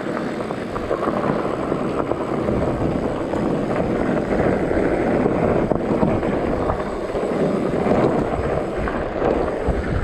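Wind rushing and buffeting over the microphone of a GoPro on a mountain bike at speed on a dirt trail descent, mixed with tyre and trail rumble.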